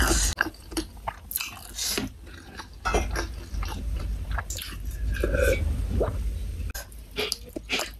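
Close-up chewing, biting and lip smacks of someone eating boneless chicken feet in sweet soy sauce with rice, with swallowing gulps from a glass mug in the second half.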